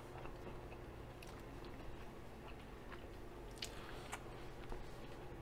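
Faint mouth sounds of a person chewing food: soft, irregular wet clicks, with a couple of sharper ones past the middle, over a low steady room hum.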